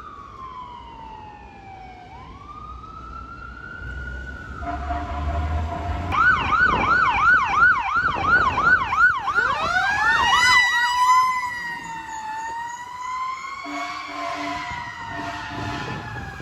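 Emergency vehicle siren: a slow wail falling then rising, switching to a fast yelp of about four cycles a second, then back to a rising, slowly falling wail. Lower steady tones and engine rumble sound beneath it twice.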